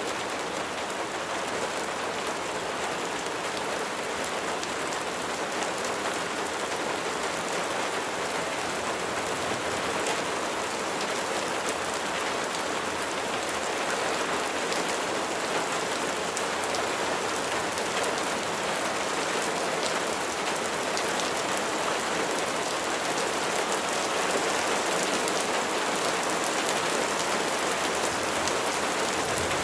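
Steady rain falling, with many fine raindrop ticks on a surface, constant throughout.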